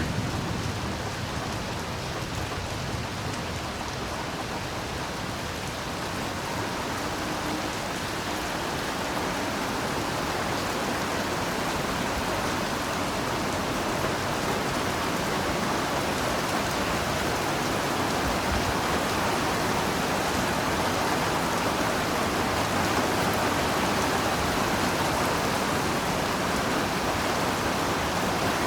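Heavy, steady rainfall: a dense, even hiss of rain pattering on foliage and ground, growing slightly louder over the stretch.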